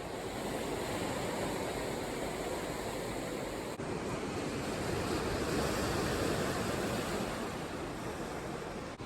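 Sea surf: a steady rush of breaking waves that swells to a peak a little past halfway and then eases off.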